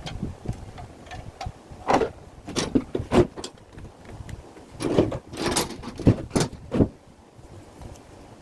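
A series of irregular knocks and rattles, like hard parts or tools being handled and set down, clustered in two bursts a few seconds apart.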